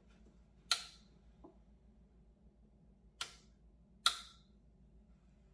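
Three sharp clicks, one a little under a second in, one near three seconds and one a second after that, with a fainter tick between: cable connectors being plugged into a desktop PC.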